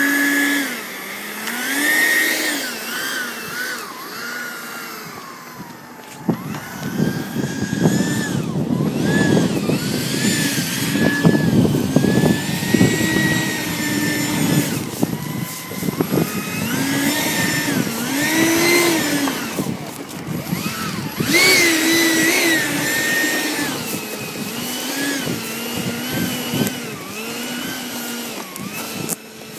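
Whine of an RC electric ducted-fan jet, its pitch rising and falling every second or two as the throttle or distance changes. From about six seconds in, gusty wind buffets the microphone.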